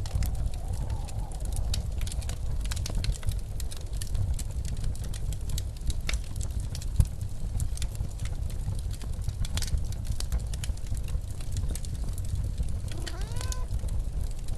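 Fireplace crackling with frequent sharp pops over a steady low rumble of blizzard wind. A brief rising tone sounds near the end.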